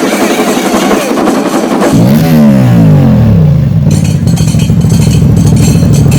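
Motorcycle engine revved hard about two seconds in, its pitch rising briefly and falling back, then running steadily. From about four seconds in, a steady rhythmic beat sounds alongside.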